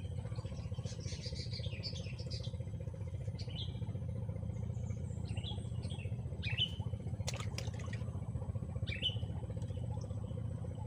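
Birds chirping: a burst of chatter early on, then several short calls that fall in pitch, over a steady low rumble. Two sharp clicks come about seven seconds in.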